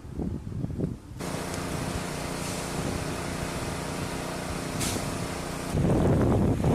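An engine running steadily at an even pitch, after a cut about a second in. Near the end it cuts to loud wind buffeting the microphone.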